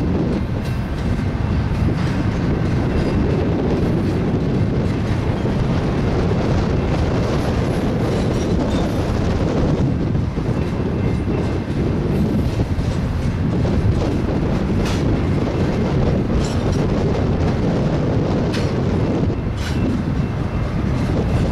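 Double-stack container train of BNSF well cars rolling past: a steady rumble of wheels on rail, with a few short sharp clicks and clanks in the second half.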